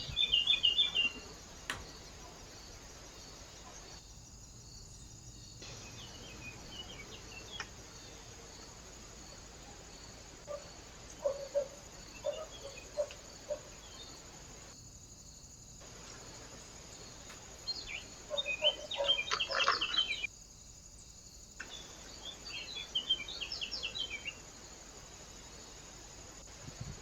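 Small birds at a feeder giving short, high chirps in scattered bursts, with a louder burst of chirps and rustling about two-thirds of the way through, over a steady hiss of outdoor background. The sound drops out briefly three times.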